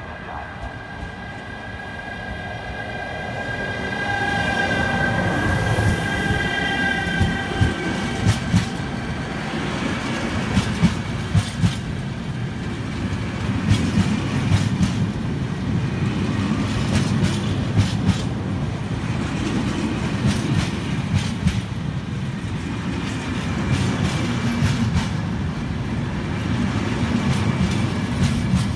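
Train passing through a station, growing louder over the first few seconds. A high steady whine is heard for the first several seconds, then rapid clickety-clack of wheels over rail joints runs through the rest.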